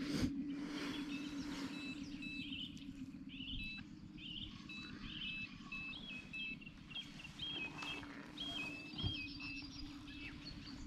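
Songbirds singing short, repeated chirping phrases in riverside trees. A steady low hum fades out about three and a half seconds in.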